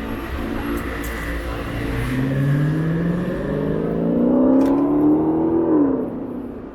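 A motor vehicle's engine accelerating on a city street: its pitch rises steadily for about four seconds, then drops and fades near the end, over a low rumble of traffic.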